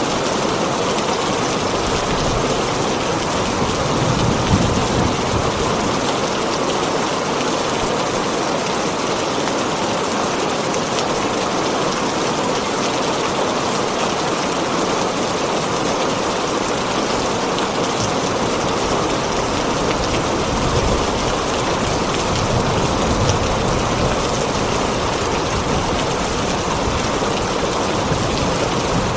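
Heavy rain falling steadily on a tin roof, a dense even patter with scattered sharper drop strikes.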